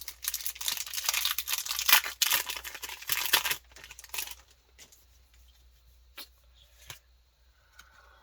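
Foil wrapper of a Pokémon booster pack being torn open and crinkled for about three and a half seconds, then a few faint clicks as the cards are handled.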